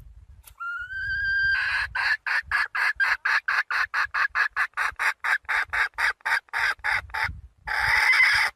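Red junglefowl hen calling to a rooster: a drawn-out rising note, then a fast, even run of short clucking calls at about four a second, and after a short pause a longer, harsher call that stops abruptly.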